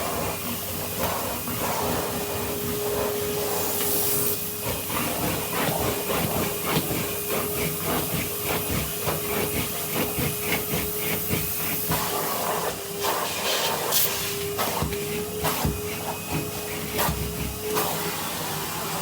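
Vacuum cleaner running with its brush tool, a steady motor whine and hiss, with frequent short clicks and knocks throughout.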